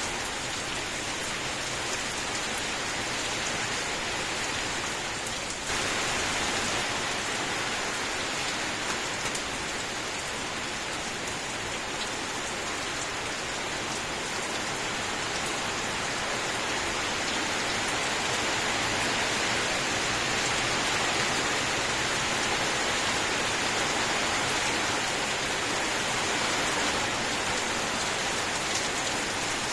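Rain falling steadily as a dense hiss of drops, which turns suddenly louder and brighter about six seconds in.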